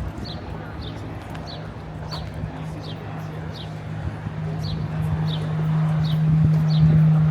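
A short, high, falling chirp repeats steadily, about every half second or so, over a steady low hum that swells louder near the end, in outdoor street noise.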